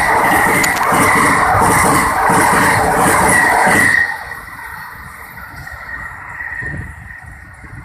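Passenger train coaches rolling past at close range: a loud, dense rumble and clatter of steel wheels on rail, with a steady high ring running through it. About four seconds in, the last coach passes and the sound drops sharply, leaving a fading ring from the rails.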